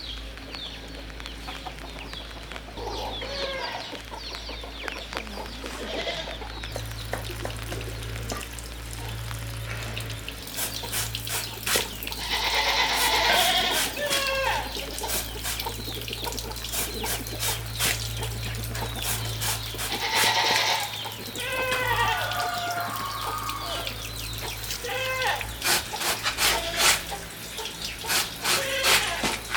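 Goats bleating, two long loud bleats standing out, with chickens clucking and scattered clicks and drips around them over a steady low hum.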